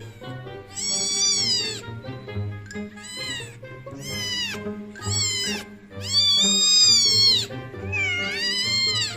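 Domestic cat meowing repeatedly, about six separate meows that rise and fall in pitch. The longest is near the middle and the last dips down before rising. Background music plays underneath.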